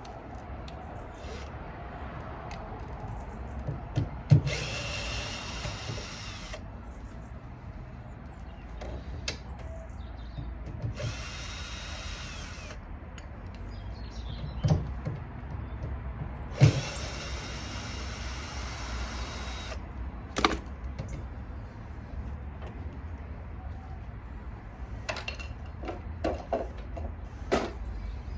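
Power drill-driver running in three short bursts of two to three seconds each, with a steady high whine, likely undoing screws while stripping down a washing machine. Knocks and clicks come between the bursts.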